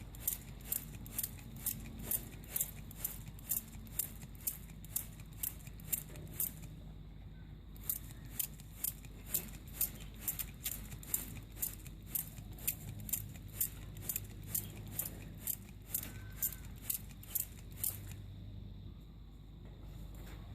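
Repeated quick spritzes from a hand trigger spray bottle, about two to three squirts a second, with a short break about seven seconds in, stopping about eighteen seconds in.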